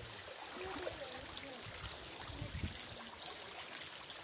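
Heavy rain falling on standing floodwater: a steady hiss with a fine patter of many drops. Faint voices can be heard under it.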